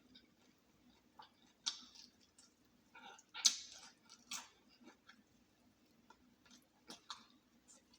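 A person chewing and biting into crispy fried chicken close to the microphone: irregular crunches and crackles, the loudest a little past the middle.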